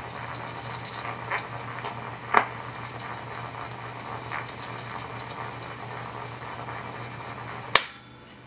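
A 1940s wire recorder running with a steady low hum and a few faint clicks, then a sharp click near the end as it is switched off and the hum stops. No recorded test voice comes back from the wire: the recording has not worked.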